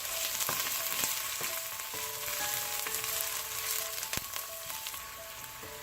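Diced red onion sizzling in olive oil in a frying pan on medium heat, a steady hiss with scattered crackles and pops.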